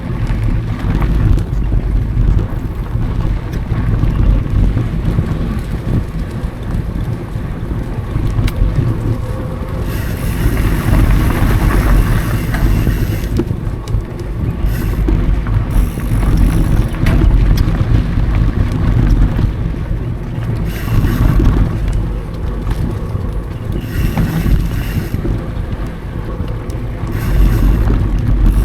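Wind buffeting an action camera's microphone over the rumble and rattle of a mountain bike rolling on dry singletrack. Bursts of higher hiss come and go several times.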